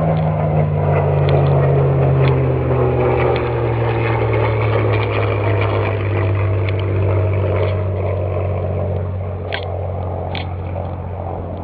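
An engine running steadily with a low hum whose pitch slowly falls. Near the end come two short, sharp scrapes of a flint-and-steel fire starter being struck.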